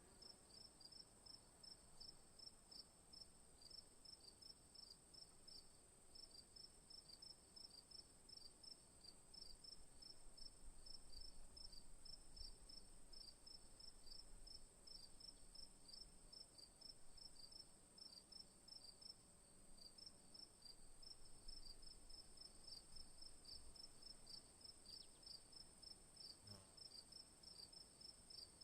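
Faint insect chirping: a steady high-pitched trill with a second series of short chirps repeating about three times a second.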